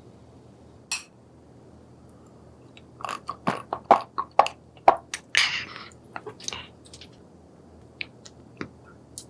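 Close-miked eating of seafood: biting and chewing with sharp, crunchy clicks. There is one click about a second in, a dense run from about three to seven seconds in, and a few scattered ones near the end.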